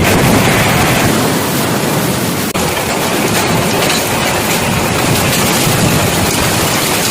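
Heavy storm rain pouring down, a loud, steady rushing hiss with wind buffeting the microphone. The sound drops out for an instant about two and a half seconds in.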